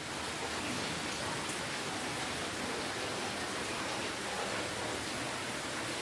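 Steady rainfall, an even hiss of many drops with a few faint separate drop ticks.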